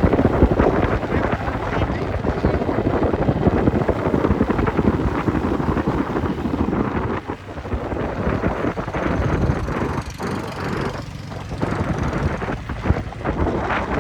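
Wind buffeting the microphone: a heavy, gusting low rumble, easing somewhat about halfway through.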